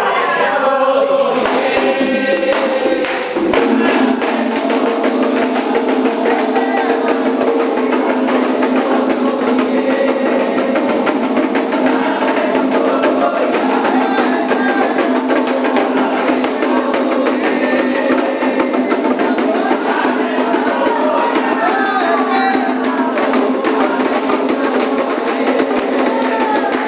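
Candomblé ritual music: drums beaten in a fast, dense rhythm with a struck percussion part and voices singing over it.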